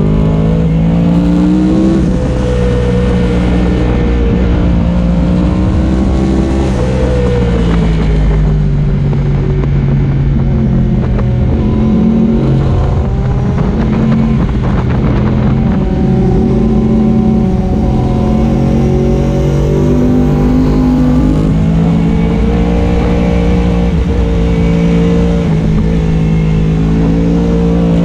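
Yamaha R1M's crossplane inline-four engine at speed on a track, its pitch repeatedly rising under acceleration and falling as the throttle closes for corners, over steady wind rush on the microphone.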